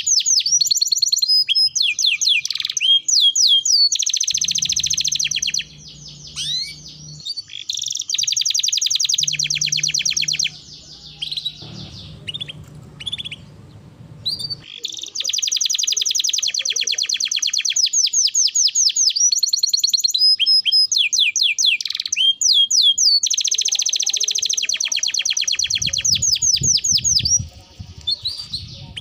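Domestic canary singing a long song of very fast trills and rapid repeated notes, broken by several short pauses.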